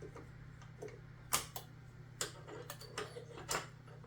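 Light, irregular clicks and taps from hand tools and engine parts being handled during the teardown, about half a dozen, over a steady low hum.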